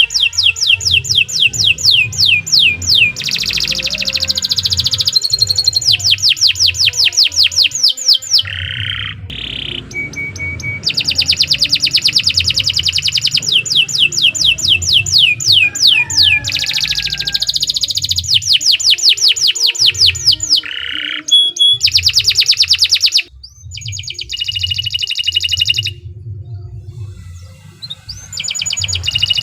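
Domestic canary singing a long, loud song made of fast trills: runs of rapidly repeated sweeping notes, changing from one trill to the next, with a few short pauses between phrases.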